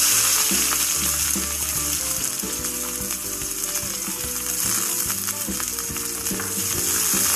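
Shallots sizzling in hot coconut oil in a wide kadai, just after going in. A steady frying hiss, loudest at the start.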